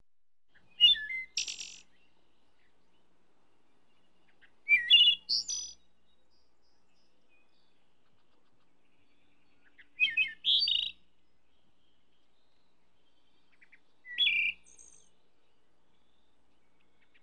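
A bird calling in four short phrases of quick, high chirping notes, spaced about four to five seconds apart.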